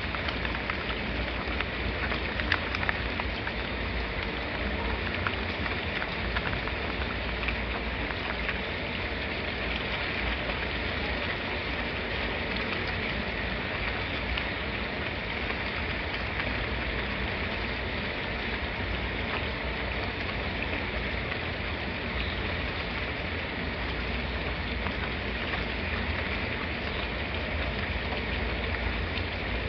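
Steady rain falling, an even hiss with scattered drop ticks, a few sharper drops in the first seconds.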